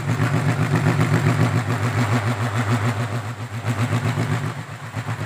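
Balinese pindekan (kolecer), a large wooden wind propeller of cempaka wood, spinning in the wind with a loud, rapidly pulsing low drone that eases off near the end.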